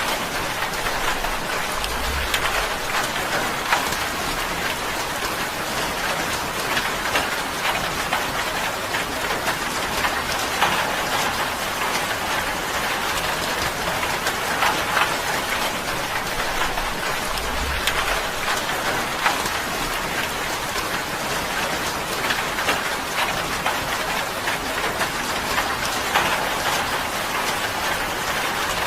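Steady rain falling on tin: a dense, even hiss sprinkled with many sharp individual drop ticks. Two faint low rumbles sound about two seconds in and again near the middle.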